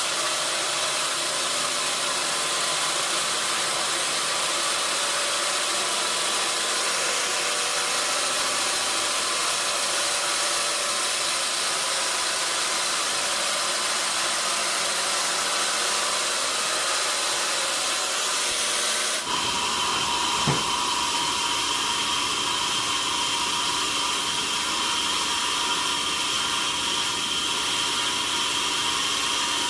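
Sawmill machinery running steadily: a loud mechanical hiss with a faint whine. About two-thirds through, the sound changes abruptly to a steadier whine, and a single brief knock follows soon after.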